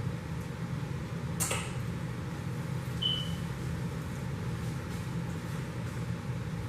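Steady low electrical or machine hum in a small room, with one sharp click about a second and a half in and a brief high squeak around three seconds in.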